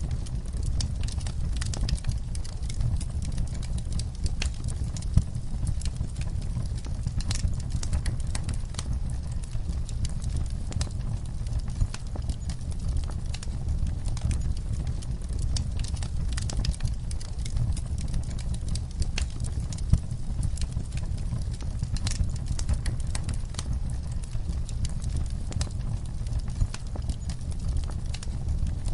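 Wood fire crackling: a dense, irregular run of sharp pops and snaps over a steady low rumble, with a few louder pops standing out.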